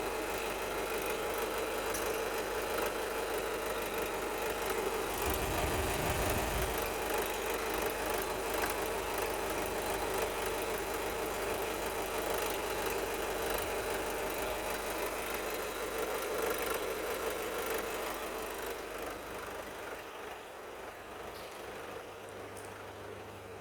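Toyota 2KD-FTV 2.5-litre four-cylinder turbodiesel idling steadily, with a brief low rumble about five seconds in. The engine grows fainter over the last few seconds.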